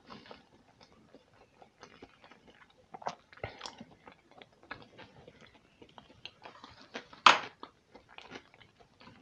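Close-up mouth sounds of a person chewing a mouthful of sushi roll: soft irregular wet clicks and small crunches, with one louder smack about seven seconds in.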